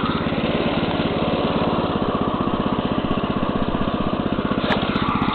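The new engine of a Neva MB-2 walk-behind tractor running steadily at a held throttle, quiet for its kind, as it is being run in. A single sharp click comes near the end.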